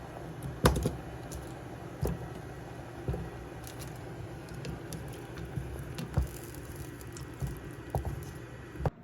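Steady background noise with a handful of irregular knocks and clicks, the loudest about a second in.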